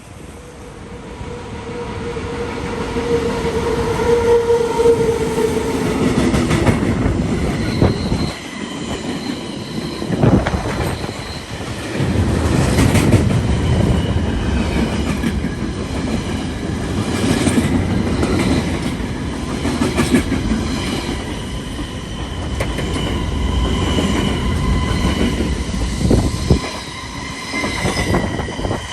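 A train running close by on the tracks, wheels clattering over the rail joints with high-pitched wheel squeal. The sound builds over the first few seconds and then stays loud.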